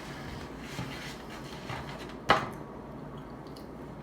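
Faint handling sounds with one sharp knock a little over two seconds in, like something set down hard on a table.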